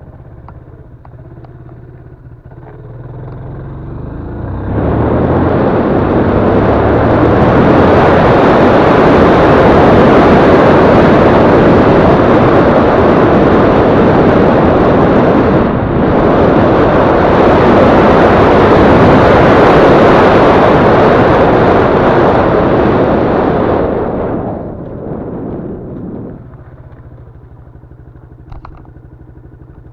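Yamaha Crypton-X single-cylinder motorcycle engine running as it is ridden. About five seconds in, a loud, even rushing noise builds and swamps the engine for nearly twenty seconds, then dies away, leaving the low engine hum again.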